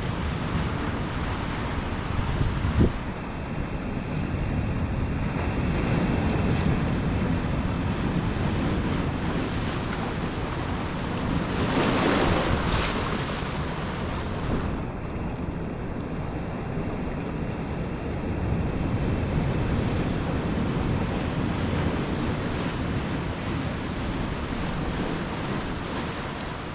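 Ocean surf washing in a steady rush, with one wave breaking louder about twelve seconds in. Wind buffets the microphone.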